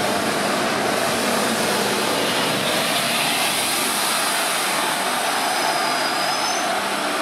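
Train running on the rails: a steady rush of wheel and track noise, with a thin, high wheel squeal starting near the end.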